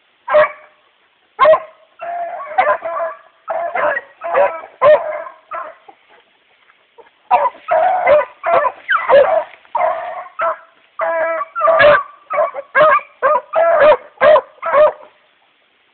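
Rabbit hounds baying while running a rabbit's trail: a steady run of loud, ringing barks and drawn-out bawls, pausing briefly about halfway through.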